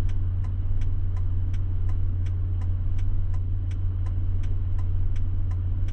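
Vehicle's indicator relay clicking steadily, about three clicks a second, over a steady low engine drone.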